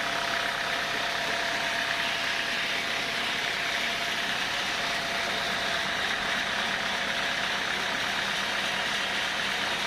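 Sawmill saw running steadily through thick timber: a constant whine with a dense hiss above it, unchanging throughout.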